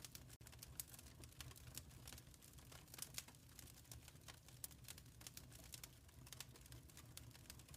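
Faint crackling of a fire in a fireplace: irregular quick snaps and pops over a low steady rumble.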